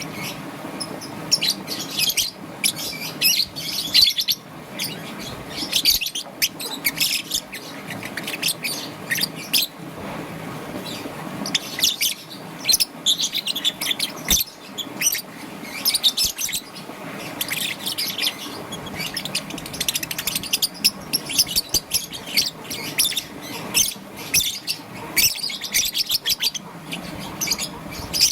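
Young peach-faced lovebird chirping, a near-continuous run of rapid, high-pitched chirps in short bouts.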